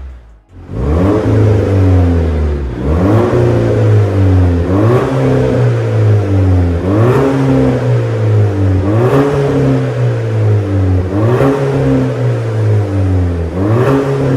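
Volvo V60 B5's 2.0-litre turbocharged four-cylinder engine through an MS-R catback exhaust, being blipped repeatedly: about seven quick revs roughly two seconds apart, each rising sharply and falling back, starting about a second in.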